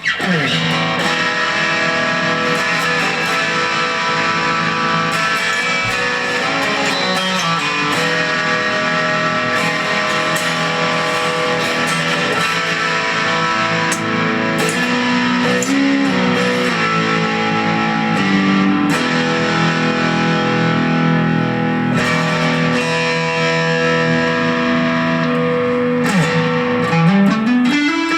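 Electric Stratocaster-style guitar played through an amplifier with some overdrive. It holds sustained notes and chords, bends strings a few times midway and slides up near the end.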